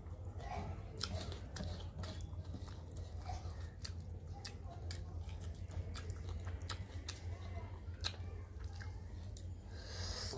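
Close-up mouth sounds of someone eating a meal of rice and dal by hand: chewing with many irregular wet clicks and smacks, over a steady low hum. A short hiss comes near the end.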